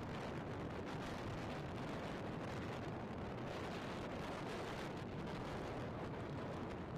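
Strong wind blowing steadily, with a constant low rumble of the wind buffeting the microphone.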